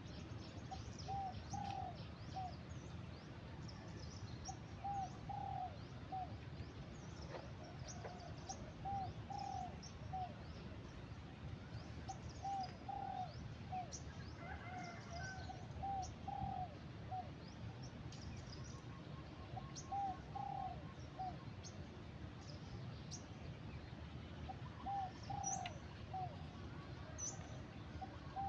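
A dove cooing, short low notes in phrases of three or four repeated every few seconds, with small birds chirping faintly in the background.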